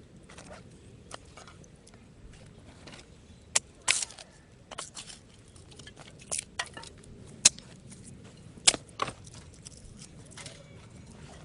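Dry wood and twigs giving irregular sharp snaps and cracks, about a dozen, the loudest clustered in the middle.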